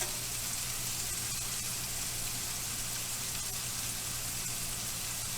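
Beef burger patties frying in a thin layer of bacon fat, a steady sizzle.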